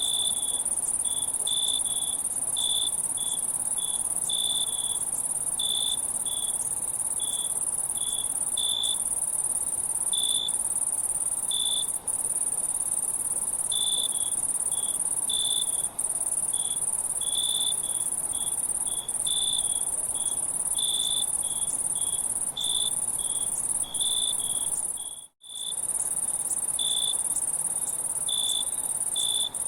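Insects singing: a steady high-pitched trill with shorter chirps repeating irregularly over it. The sound cuts out for a split second about 25 seconds in.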